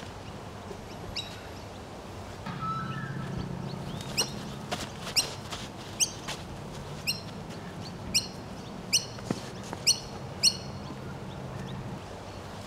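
A bird calling over and over: about ten short, sharp calls, each dropping quickly in pitch, coming roughly half a second to a second apart and starting about four seconds in.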